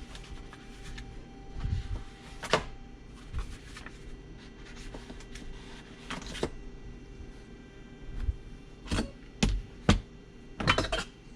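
Scattered knocks and clicks of a 3D-printed plastic rack and paper notepads being handled and set in place against a wall. Single knocks come a few seconds apart, then several close together near the end.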